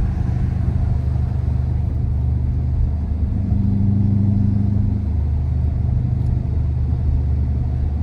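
Car engine and exhaust droning steadily under way, a low even hum that grows a little stronger for a moment around the middle.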